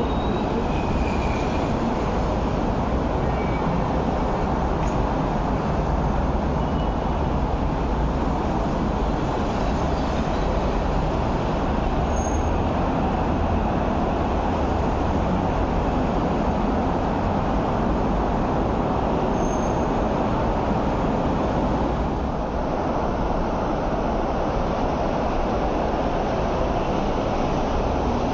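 Steady rumble and hiss of MTR East Rail Line electric trains at a station platform, with a short dip in level about 22 seconds in.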